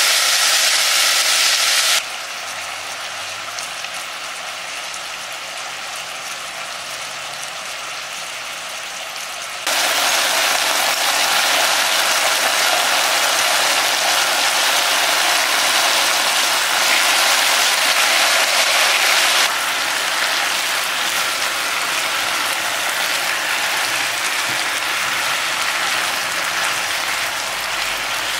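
Chicken pieces with onion and ginger sizzling in hot oil in a pot, a steady hiss that drops sharply in level about two seconds in and comes back up near ten seconds.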